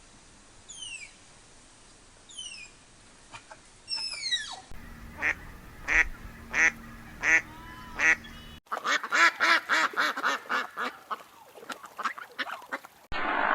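Animal calls from several joined recordings: a few faint, high, falling squeaks in the first seconds, then six evenly spaced calls, then a faster, denser run of calls.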